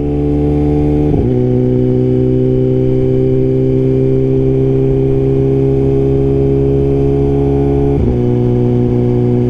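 Suzuki GSX-R1000R inline-four running through a Brocks Performance full exhaust system, heard from the bike while cruising at steady throttle: a loud, deep, even exhaust note. The pitch shifts briefly about a second in and again about eight seconds in.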